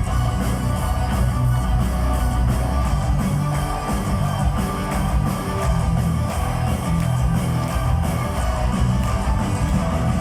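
Live heavy metal band playing: electric guitars, bass and drums with a steady beat.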